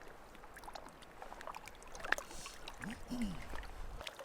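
Faint water splashing with scattered small clicks and knocks, and one sharper click about two seconds in. There is also a brief low voice-like sound about three seconds in.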